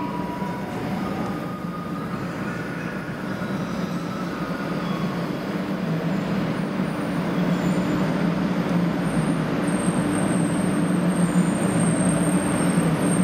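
A JR West 500 series Shinkansen train pulling slowly into the platform. Its steady rumble grows louder as it comes alongside, and a high, thin whine joins it about nine seconds in.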